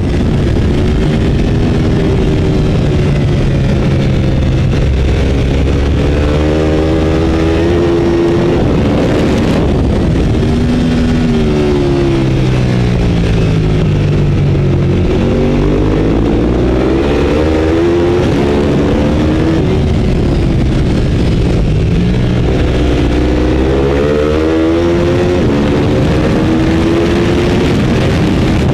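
Race motorcycle engine heard onboard at racing speed. It revs up through the gears in repeated climbs in pitch with short drops at each upshift, then falls away several times as the bike slows for corners, under a steady rush of wind.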